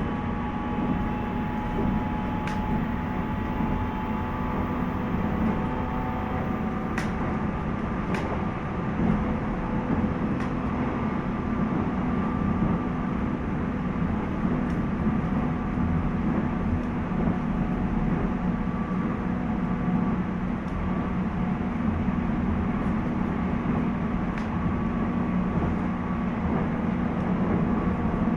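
Running noise heard from inside a JR East 719 series electric multiple unit (motor car KuMoHa 719-1) travelling at a steady speed: a continuous rumble with faint steady whines and a few light clicks. The uploader wonders whether this car makes an abnormal noise.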